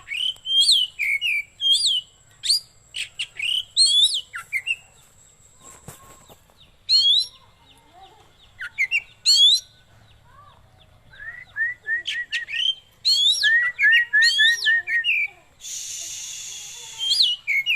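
Oriental magpie-robin (kacer) singing: a varied string of loud, clear whistled phrases that slide up and down, with quick runs of short repeated notes about two-thirds of the way through. A harsh rasping noise comes near the end.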